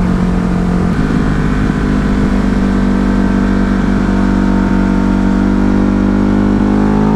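Ducati Hypermotard's V-twin engine running steadily under the rider while cruising. Its pitch rises slightly near the end as it picks up speed.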